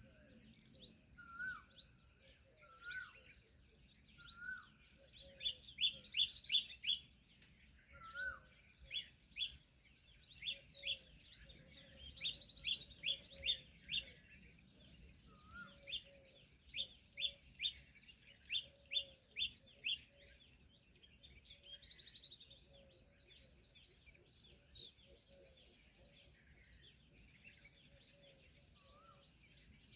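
Several small birds chirping and twittering together in quick runs of high notes, with a lower, upswept call repeated now and then. The chirping thins out over the last third.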